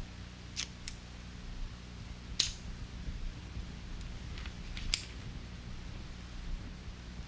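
A handful of short, sharp clicks, the loudest about two and a half seconds in, over a low steady hum.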